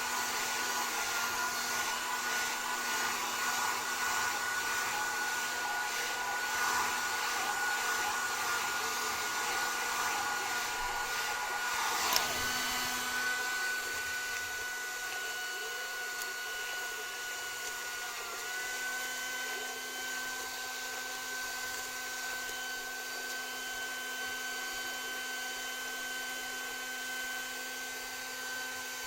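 Hand-held hair dryer blowing steadily: a rush of air with a thin motor whine. About twelve seconds in there is a sharp click and the sound becomes a little quieter; later the whine briefly dips and settles slightly higher.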